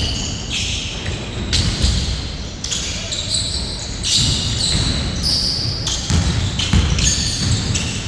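Basketball bouncing on an indoor court during a game, with repeated thuds and several short high-pitched squeaks.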